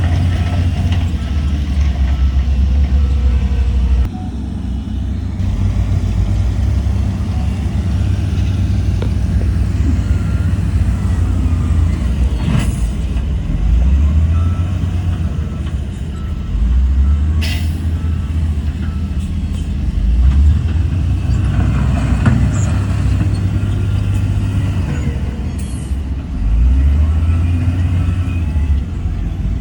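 Heavy diesel construction machinery running, a deep engine rumble that swells and eases every few seconds as the load changes, with a couple of short sharp sounds.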